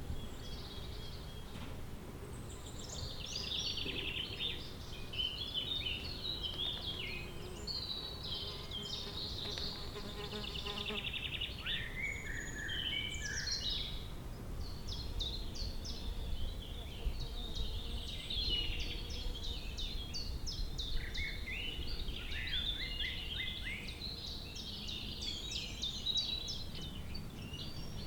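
Songbirds singing in a spring garden, several quick twittering and trilling phrases overlapping, over a steady low background rumble.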